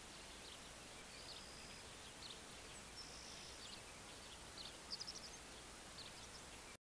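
Faint birds chirping and whistling a few times over a steady hiss of outdoor background noise; the sound cuts off abruptly near the end.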